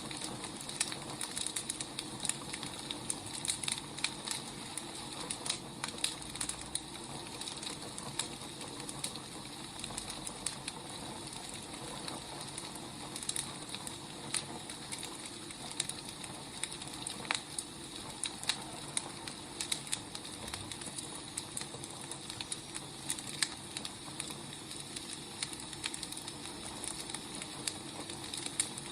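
Firewood burning: a steady hiss with frequent irregular crackles and pops.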